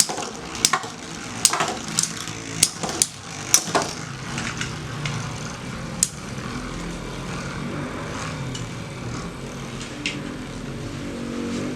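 Metal Fight Beyblade spinning tops whirring in a stadium and clacking sharply as they collide: several clashes in the first four seconds and one more about six seconds in, then a steady whir of the tops still spinning.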